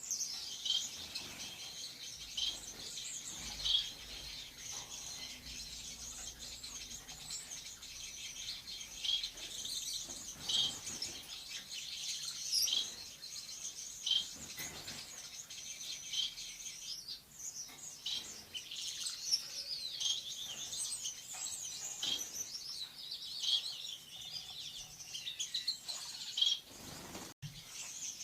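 Lovebirds chattering, a continuous stream of overlapping high-pitched chirps with sharper louder notes scattered through.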